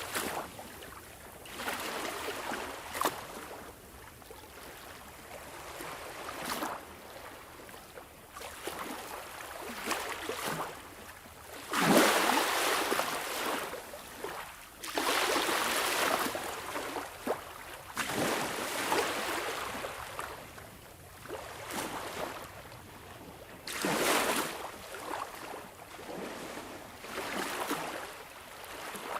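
Sea waves washing in and drawing back, a hissing rush of water that swells and fades every few seconds.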